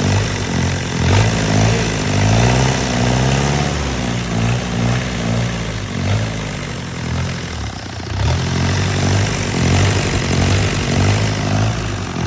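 Isuzu C240 four-cylinder diesel engine running, its pitch rising and falling as it is revved lightly, once about two seconds in and again in the second half.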